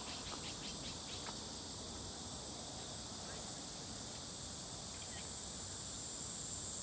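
Outdoor insect chorus: a steady, high-pitched continuous buzzing drone, with a few faint ticks in the first second or so.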